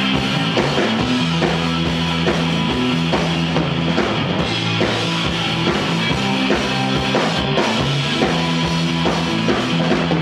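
Rock band playing live, an instrumental passage between sung lines: drum kit keeping a steady beat under bass and electric guitar.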